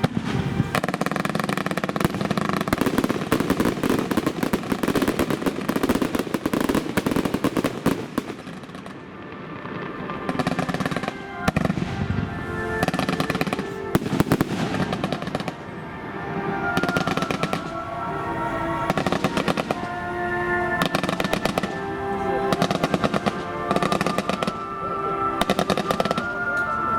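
Fireworks going off in rapid volleys of bangs and crackles, with music playing alongside, its held notes clearer in the second half.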